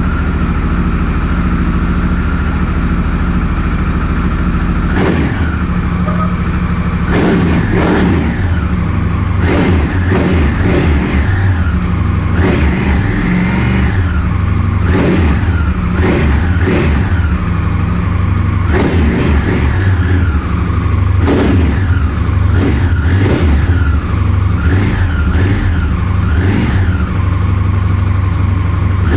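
Honda CRF1000L Africa Twin's parallel-twin engine running through an aftermarket MIVV exhaust: idling steadily for about five seconds, then blipped over and over, each rev rising quickly and falling back to idle.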